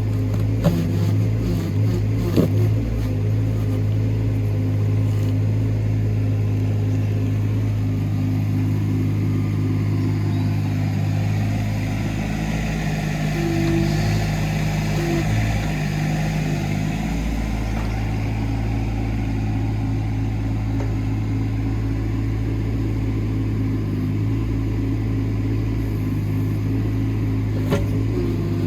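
Hitachi ZX18 mini excavator's diesel engine running steadily while digging. A higher hydraulic whine swells and fades over the middle, and there are two sharp knocks near the start.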